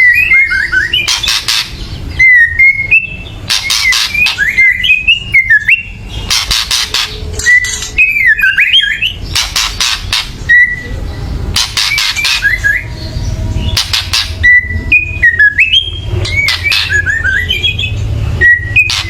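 White-rumped shama giving harsh rattling 'kretekan' calls, bursts of rapid crackling strokes that alternate every couple of seconds with short whistled phrases gliding up and down. This is the shama's aggressive, excited calling.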